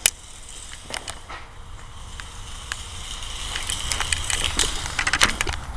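Toy RC car running: a thin, high electric-motor whine with its wheels rattling over the ground, growing louder about halfway through, with scattered sharp clicks.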